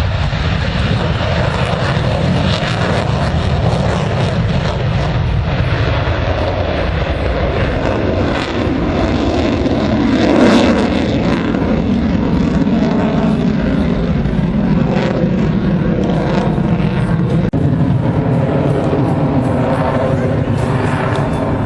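A formation of SNJ-2 vintage trainer planes flying past, their radial propeller engines running together and swelling to the loudest point about halfway through, with pitch shifting as they pass.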